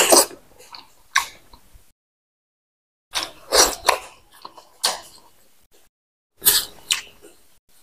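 Close-miked chewing and lip-smacking of a mouthful of rice and pork fat: loud wet mouth sounds in short clusters, at the start, about a second in, around three to four seconds in, near five seconds and again near the end, with dead silence between.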